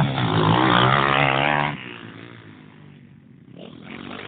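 Pit bike engine running loudly, then dropping away sharply after about a second and a half and rising again near the end.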